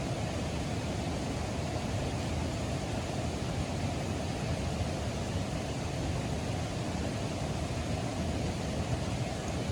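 Water rushing steadily, a constant even roar with most of its weight low down.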